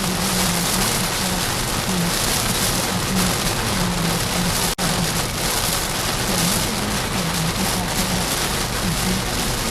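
Heavy water spattering steadily on a car's body, a dense even hiss, with a low wavering hum underneath. The sound cuts out for an instant about halfway.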